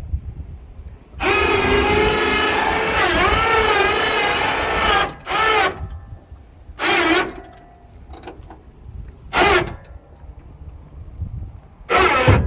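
Electric motor of a motorcycle loading rig running: one whine of about four seconds whose pitch sags briefly under load, then three short jogs of the same motor.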